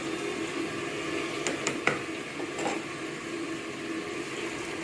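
Chicken pieces deep-frying in hot cooking oil, a steady sizzle, with a few sharp clicks about one and a half to two seconds in.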